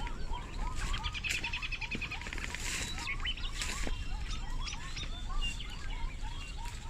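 Several birds calling together: short rising-and-falling notes repeat two or three times a second, with quick runs of higher chirps over them, the densest about a second in. A steady low rumble runs underneath.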